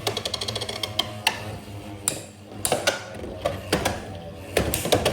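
Two spinning Beyblade X tops colliding in a plastic stadium. The first second is a fast rattle of clicks, then come scattered sharp hits as Silver Wolf's attacks knock against Wizard Rod.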